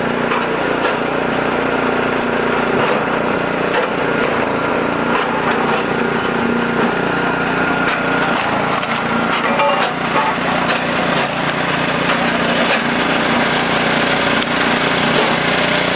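Small engine of a Super Split flywheel wood splitter running steadily, with repeated sharp cracks and knocks as logs are split and the pieces are handled.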